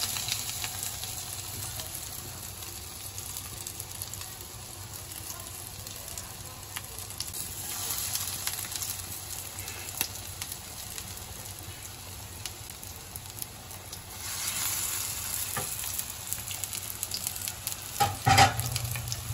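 Breadcrumb-coated egg and potato kababs sizzling as they shallow-fry in a little hot oil in a non-stick pan, a steady hiss with fine crackles. The sizzle swells twice as more kababs are laid in, and a short louder sound comes near the end.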